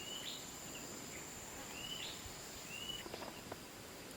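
Faint outdoor nature ambience: a bird giving short, high, upward-sweeping chirps about once a second, over a steady high-pitched insect drone, with a few faint clicks about three seconds in.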